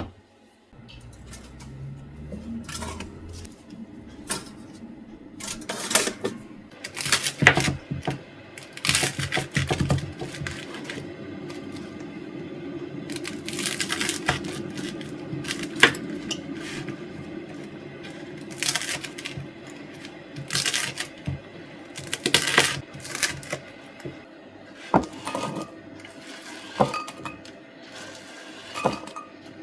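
Kitchen clatter: scattered clinks, taps and knocks of dishes, jars and utensils being handled, a few seconds apart.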